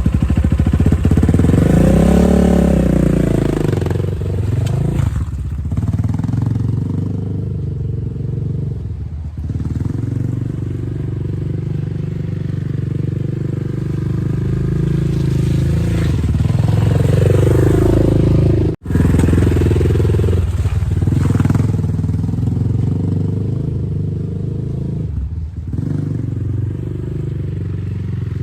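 10ten 250cc dirt bike engine running under riding, revving up and easing off, with rises in pitch about two seconds in and again around seventeen seconds. About two-thirds of the way through the sound cuts out for an instant.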